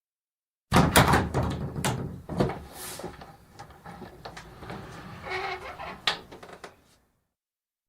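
Wooden bifold door being worked: a clatter of sharp knocks and rattles as the panels fold, then a softer rattling rub, and a final sharp knock about six seconds in.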